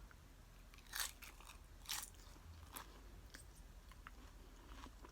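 Close-up eating of nachos: loud crunches as tortilla chips are bitten, about one, two and nearly three seconds in, then softer crackling chewing.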